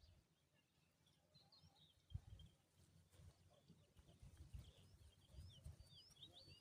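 Faint, quick high bird chirps and twitters, many short notes throughout, over low rumbling thumps, the loudest about two seconds in.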